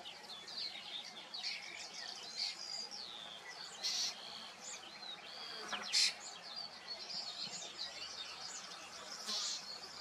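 Several songbirds singing and calling at once: a dense mix of short chirps and whistled notes, some sliding in pitch, with a few sharper, louder notes about four, six and nine seconds in.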